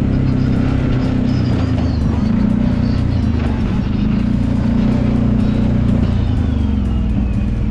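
Kawasaki Brute Force 750 ATV's V-twin engine running steadily under way on a trail, its pitch shifting a little with the throttle, with background music over it.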